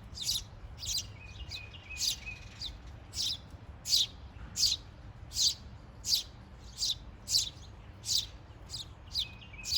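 A small songbird gives a steady series of sharp, high chirps, each one sweeping quickly downward. They come about one every three quarters of a second.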